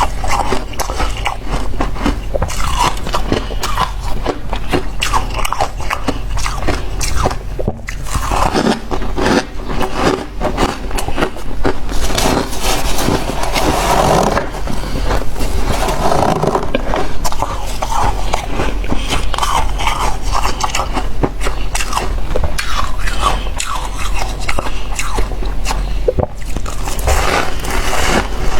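Close-miked crunching and chewing of freezer frost: a dense, continuous run of crisp crunches with scraping in between.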